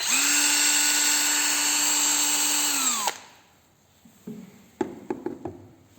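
Ingco CDLI20012 20V cordless drill/driver running free at a steady speed with an even whine for about three seconds, then winding down. A few sharp clicks follow near the end.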